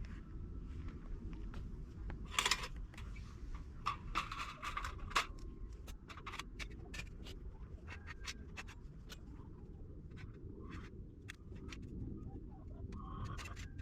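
Scattered light clicks, taps and short scrapes of small gear being handled, over a steady low rumble.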